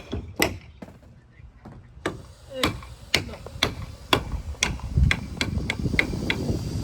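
Hammer blows on wood, about two a second, pausing briefly about a second in, then coming quicker near the end.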